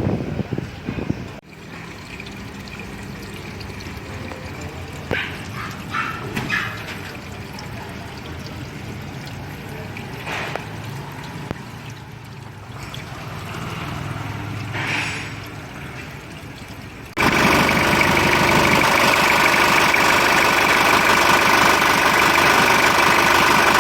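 Liquid trickling and pouring over a low hum, then about two-thirds of the way in the Toyota Hilux LN106's diesel engine comes in suddenly and loudly, idling steadily.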